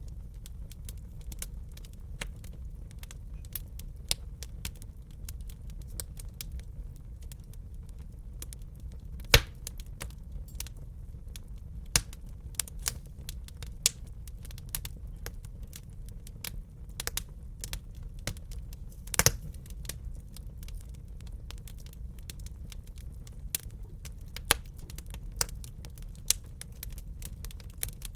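Wood fire crackling in a fireplace: irregular sharp snaps and pops over a steady low rumble of the flames, with a few louder pops, the loudest about nine and nineteen seconds in.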